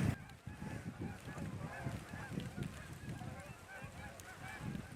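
A flock of Canada geese honking, many short overlapping honks at a distance.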